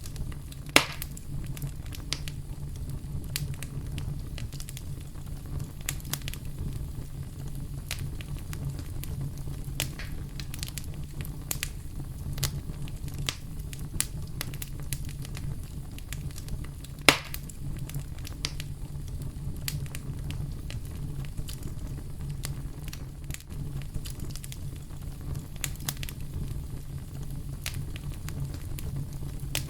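Campfire crackling and popping over a steady low brown-noise rumble, with two sharper, louder pops, one about a second in and one about seventeen seconds in.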